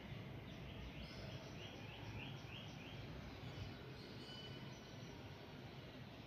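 Quiet room tone with a steady low hum. In the first half, a small bird chirps about seven times in quick, even succession.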